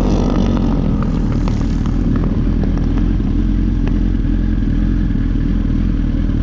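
An engine idling steadily close by, an even low rumble that holds at one level, with a few faint clicks over it.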